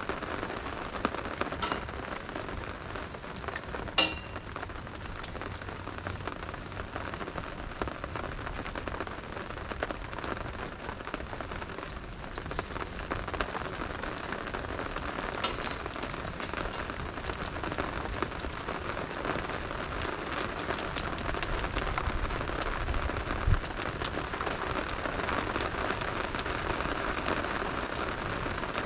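Steady rain falling on a surface, with many scattered sharp ticks throughout. One louder click comes about four seconds in, and a low thump comes near the end.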